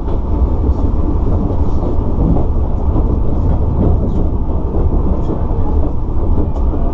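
Sotetsu 9000 series electric train running over yard track and points, heard from inside the car. A steady low rumble of wheels on rail with scattered clicks from rail joints.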